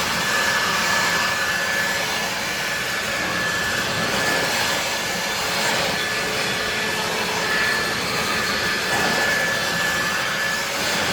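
Ryobi 2000 psi pressure washer running and spraying, a steady rushing hiss with a thin high whine that drops out for moments now and then.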